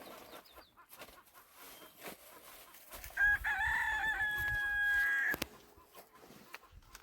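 A rooster crowing once, starting about three seconds in. The call wavers at first, then holds one long steady note for about two seconds before cutting off sharply.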